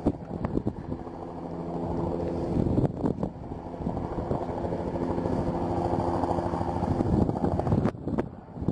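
Police helicopter flying close by, a steady rotor and turbine drone growing louder as it approaches, with a brief dip about eight seconds in.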